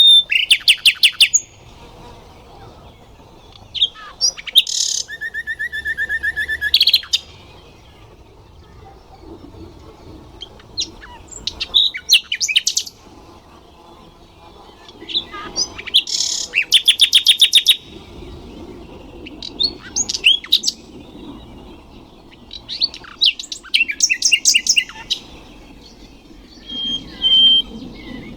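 Nightingale singing: separate phrases a few seconds apart, made of fast runs of repeated notes and trills, one of them with a low held whistle about five seconds in.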